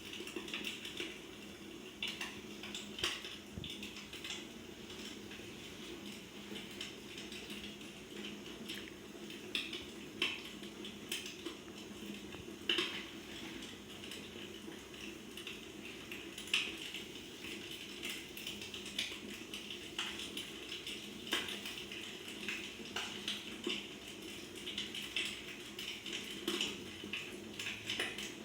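Wood fire crackling in a fireplace, with irregular sharp pops and snaps over a steady low hiss.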